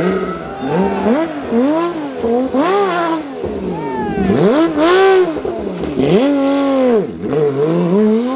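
Rally car engine driven hard, its revs climbing and dropping again and again, about every second, as the car accelerates, lifts and changes gear.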